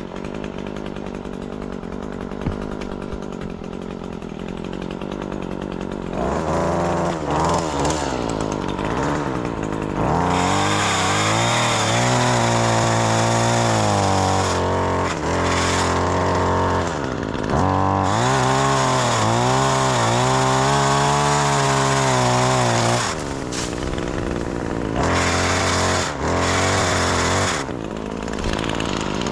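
Chainsaw running at a steady idle, then revved hard from about six seconds in and cutting branches. Its pitch sags and recovers in several long pulls, with short drops back toward idle between them.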